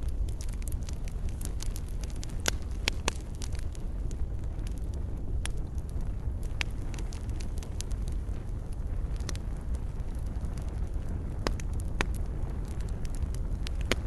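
Wood fire crackling in a fireplace: a steady low rumble and hiss with sharp pops every second or two.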